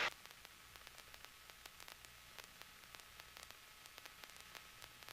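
Near silence: faint static hiss with small scattered clicks on the audio line.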